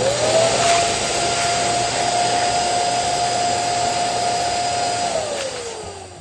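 Electric balloon pump blowing air into a balloon. Its motor whine climbs quickly to a steady pitch, holds for about five seconds over a loud rush of air, then drops in pitch and fades as it is switched off.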